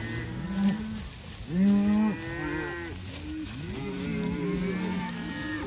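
A herd of cows and calves bawling, many overlapping moos at different pitches, the loudest a deep call about one and a half seconds in. The cows are calling to pair back up with their calves.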